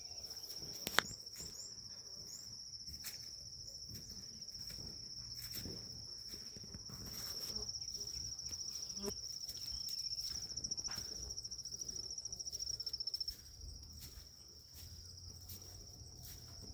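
An insect trilling: one steady, high, continuous note that grows louder through the middle and drops back about thirteen seconds in. Faint scattered clicks sit under it, with one sharp click about a second in.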